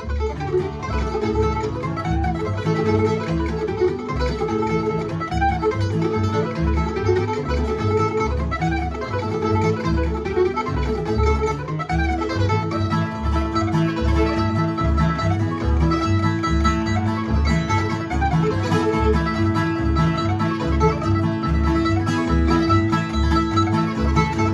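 Acoustic string band playing an instrumental bluegrass passage: plucked strings and guitar over a steady bass beat, with no singing.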